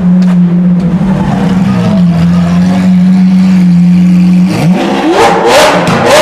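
Car engine running loud at steady revs, holding one pitch for several seconds. Near the end, rising sweeps with a regular beat come in.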